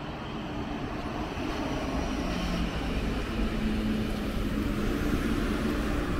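A train drawing near, its running noise and low electric hum slowly growing louder.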